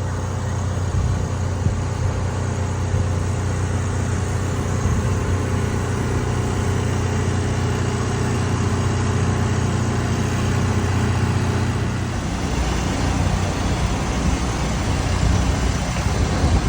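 A motor vehicle's engine running steadily under a dense hiss that fits heavy rain. The engine's low hum changes about twelve seconds in.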